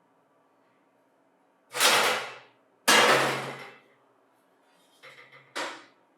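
Sandblasting gun firing short blasts of air and abrasive to strip rust: two hissing blasts of about a second each, then a few brief spurts and a shorter blast near the end.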